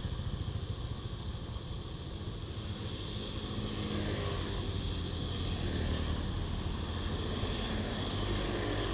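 Motorcycle engine idling close by: a steady low rumble that swells slightly from about four seconds in.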